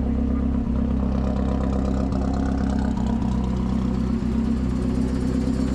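Car engine idling steadily, an even low running note with no revving.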